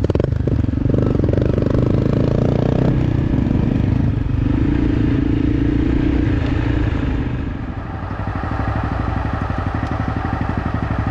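Motorcycle engine running while riding, its note changing about three seconds in.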